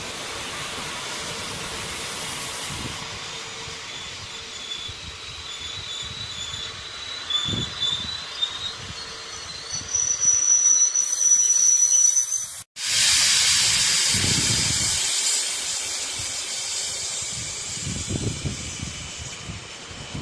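Train moving through a station: a steady rushing hiss with short, high-pitched metallic wheel squeals in the first half. After a sudden break about two-thirds through, the hiss is louder and then slowly fades.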